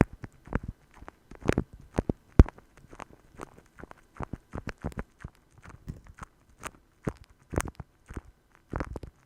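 ASMR tapping: irregular light taps and clicks close to the microphone, several a second, with a stronger knock about two and a half seconds in.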